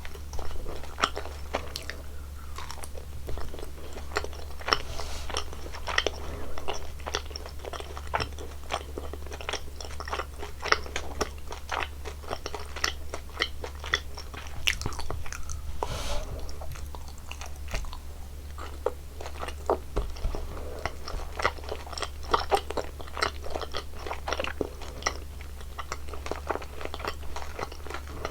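Close-miked eating sounds: a person biting and chewing sweets, with many quick crunchy clicks and snaps and wet chewing throughout, over a steady low hum.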